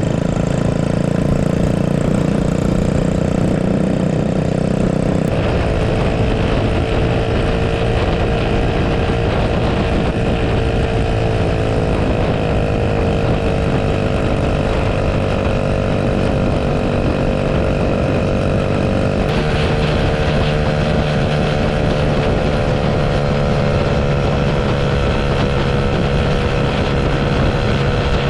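Mini bike's small engine running steadily under load while pulling a second rider on a tow strap. Its pitch shifts about five seconds in and again about two-thirds of the way through.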